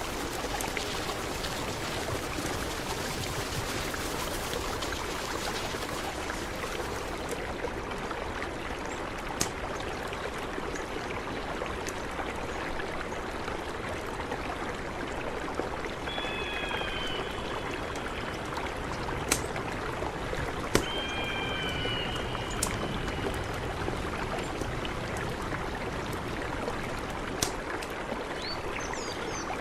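Mountain river flowing steadily. Short chirps come twice midway and again near the end, and a few sharp clicks occur now and then.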